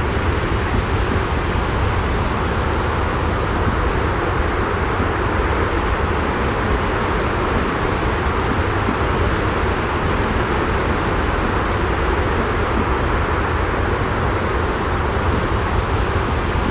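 Steady, unbroken rushing noise with a strong deep rumble, a continuous sleep-noise track of the engine-cabin kind.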